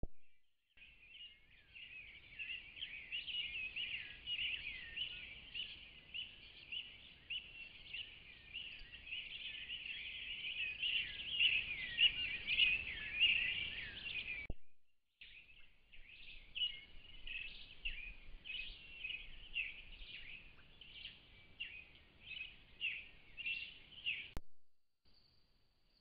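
Birds chirping and calling, many short high notes overlapping in a busy chorus. It breaks off suddenly about halfway through, resumes after a brief gap, and stops suddenly near the end.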